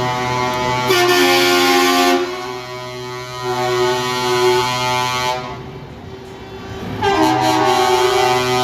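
Truck air horns sounding in long held blasts, several tones at once, the pitch shifting from blast to blast, with a brief lull about six seconds in.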